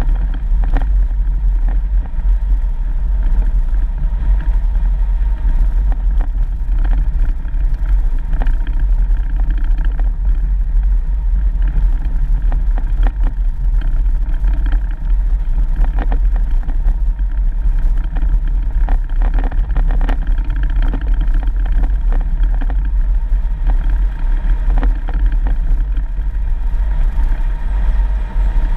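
Four-wheel-drive vehicle driving on a dirt road: a steady low engine and road rumble with scattered short knocks and rattles.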